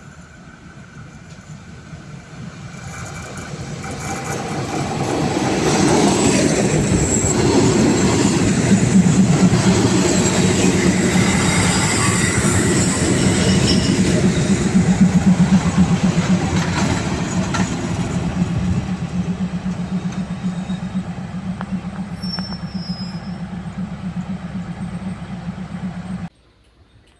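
A train passing: the rumble builds over about six seconds, runs loud with wheels on the rail and a steady low drone for about twelve seconds, then eases off and cuts off suddenly near the end.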